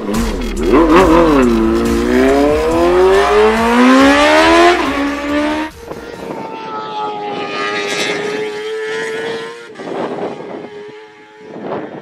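Moto2 race bike's Honda 600 cc inline-four engine through an SC-Project exhaust, revving hard: the note rises steadily for about four seconds, then drops off sharply about six seconds in and settles into a steadier, quieter note that fades near the end.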